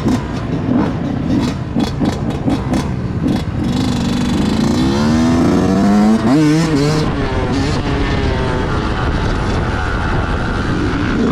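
Motorcycle engines running, with a rev that climbs in pitch about four to six seconds in and then drops off.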